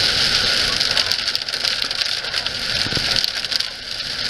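Heavy rain pouring down: a dense, steady hiss dotted with the sharp ticks of individual drops hitting.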